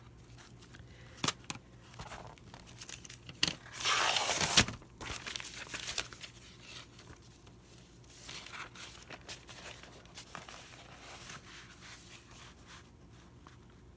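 Paper pages being handled, rustling and crinkling, with one louder rasping rustle lasting about a second, a few seconds in, and scattered small clicks and rustles after.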